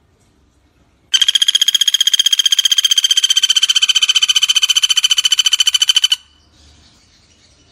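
Pelatuk bawang (flameback woodpecker) giving a loud, rapid, even rattling trill of about a dozen notes a second, lasting about five seconds and cutting off sharply.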